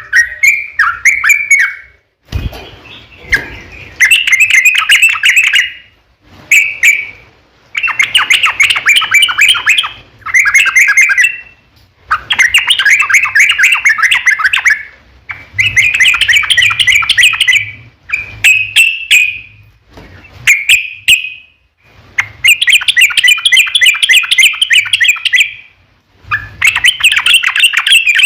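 Yellow-vented bulbul (trucukan) singing long, rapid, bubbling song phrases. The phrases come one after another, each about two seconds long, with short pauses between them.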